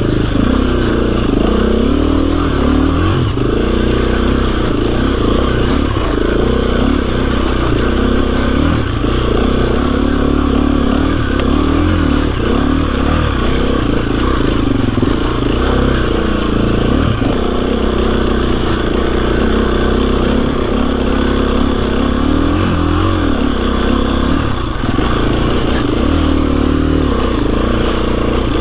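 KTM 350 EXC-F's single-cylinder four-stroke engine under way on a trail, its revs rising and falling over and over as the throttle opens and closes.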